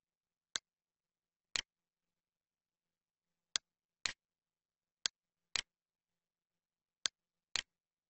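Computer mouse clicking: eight short, sharp clicks in four pairs, the two clicks of each pair about half a second apart.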